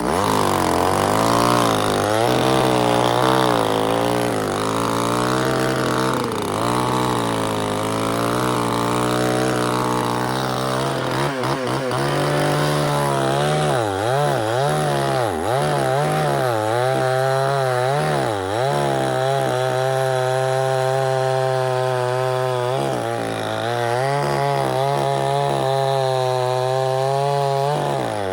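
Two-stroke chainsaw running hard, its engine pitch swinging up and down again and again as it cuts wood, then holding steadier in the last several seconds. A steady lower engine hum runs beneath it.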